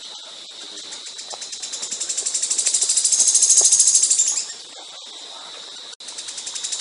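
A songbird giving a fast, evenly pulsed high-pitched trill that swells in loudness and stops abruptly after about four seconds; this is the rapid-fire 'shot' of a competition songbird. Fainter pulsing runs before and after it.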